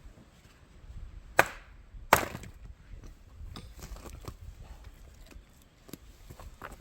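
Firewood being handled: two sharp wooden knocks about a second and a half and two seconds in, followed by lighter scattered clicks.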